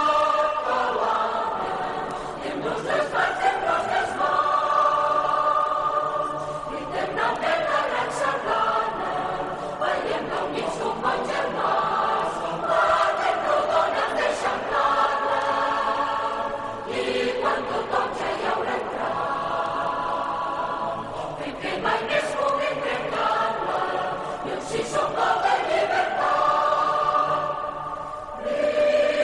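Many voices singing together in long held notes, phrase after phrase, with brief breaths between phrases.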